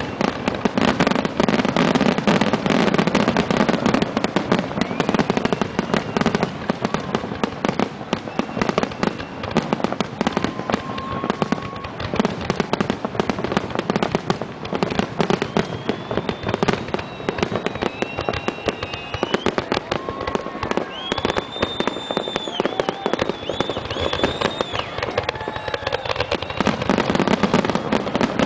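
Fireworks display: a dense, continuous crackle of bursts and bangs throughout. In the second half, high whistles rise and fall over the crackling.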